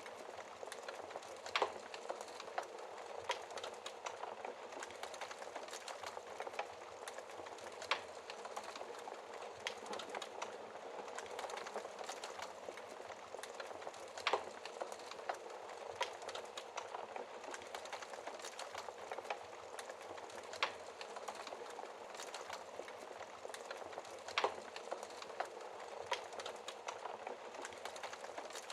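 Wood fire burning in a fireplace: a steady fine crackle and hiss from the burning logs, with sharper, louder pops every few seconds.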